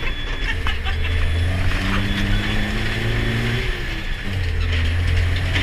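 Ginaf Dakar rally truck's diesel engine running under load: a deep steady drone, its pitch rising and falling through the middle, over a constant rush of noise.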